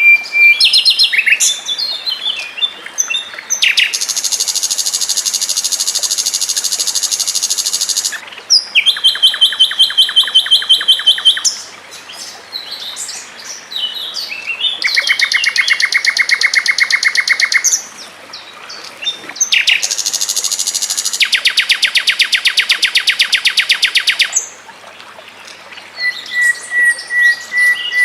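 Songbird song made of long, fast trills of evenly repeated notes, four runs of about three to four seconds each at different pitches, linked by short chirpy phrases, with a thin steady whistle near the end.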